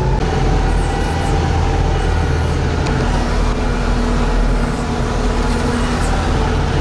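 Tucker Sno-Cat running steadily as it drives along a snowy mountain road, heard from inside the cab: a steady low engine drone.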